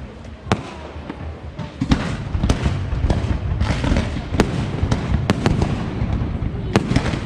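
Fireworks display: sharp shell bursts over a low rumble and a crackling hiss. The bursts come thicker and louder from about two seconds in.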